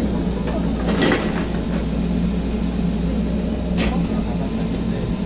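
Hydraulic excavator's diesel engine running steadily while digging. About a second in there is a short noisy burst, and near four seconds in a sharp knock.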